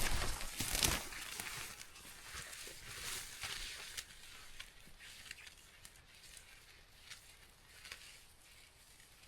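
Rustling and brushing noise with low thumps, loudest in the first second, then fading to faint scattered rustles and small clicks.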